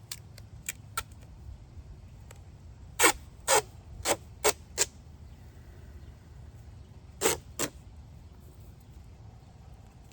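A series of sharp knocks and clicks, as of wood pieces and small hardware being handled and set down during assembly: five close together a few seconds in, two more later, over a low steady rumble.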